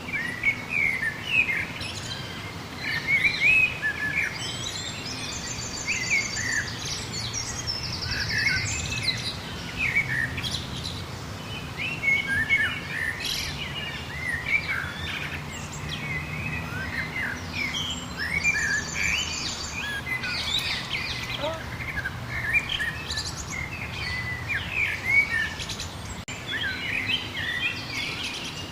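A chorus of several songbirds chirping and calling in quick short notes, with a fast high trill breaking in twice. A faint steady low hum runs underneath.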